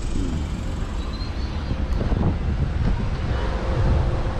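Steady low rumbling noise, like wind buffeting the microphone, with faint voices in the background about two seconds in.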